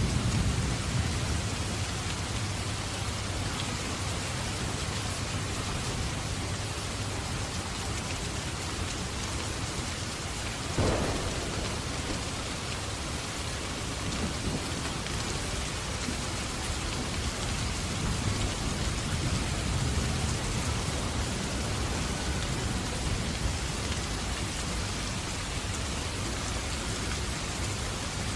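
Steady heavy rain with distant thunder rumbling low, swelling near the start and again past the middle. A single sharp crack stands out about eleven seconds in.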